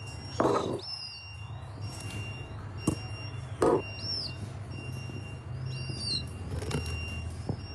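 A bird chirping: short up-and-down chirps about every second or two, with a few short knocks and a steady low hum beneath.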